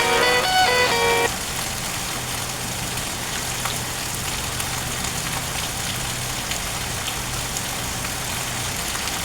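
Steady rain falling, with a low steady hum underneath. Plucked guitar music cuts off about a second in.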